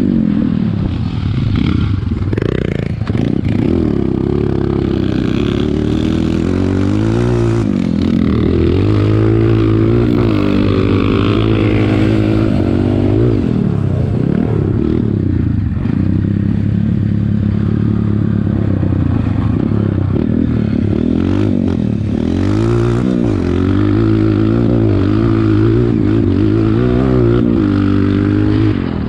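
Dirt bike engine under way, its pitch rising and falling again and again as it revs up through the gears and backs off.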